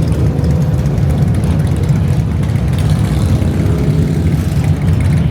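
Steady low rumble of running vehicle engines.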